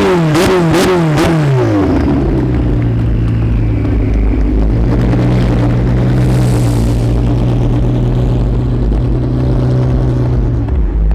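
Sports car engine revved in several quick blips, its pitch swinging up and down, then settling into a steady idle.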